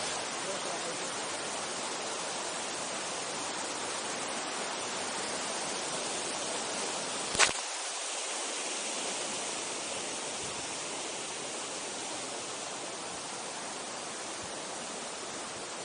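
Steady rush of a mountain stream's flowing water. A single sharp knock comes about seven seconds in.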